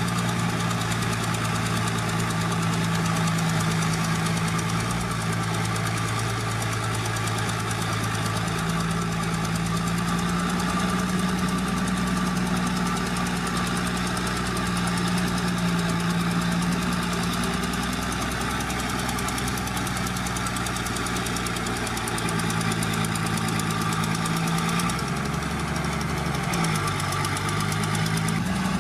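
Diesel engine of heavy earthmoving machinery running steadily, its pitch shifting a few seconds before the end.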